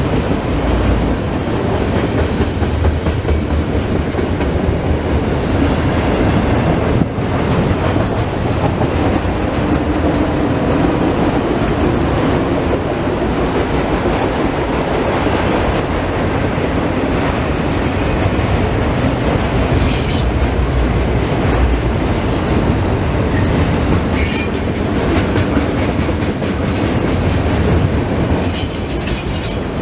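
Union Pacific freight train's cars rolling past, a loud steady rumble of wheels on rail. Short high-pitched wheel squeals come about two-thirds of the way through and again more strongly near the end.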